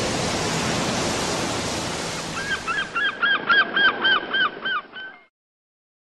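A steady rushing noise, joined about two seconds in by a bird giving a quick run of about nine calls, some four a second; then all sound cuts off abruptly.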